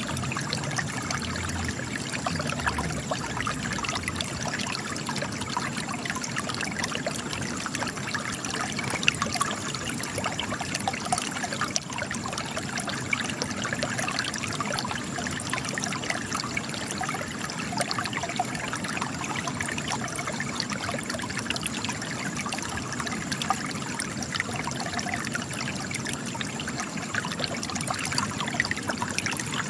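Spring water trickling and gushing from cracks in rock, a steady splashing with many small droplet sounds and no let-up.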